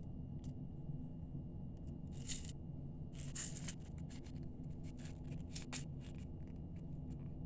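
Scattered small clicks and short rustles of beading supplies (crimps, clasp, tools) being picked up and handled, over a steady low hum.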